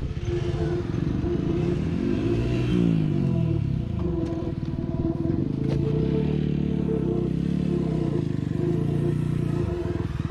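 Motorcycle engine running steadily on the move, with a brief rise and fall in pitch about two to three seconds in.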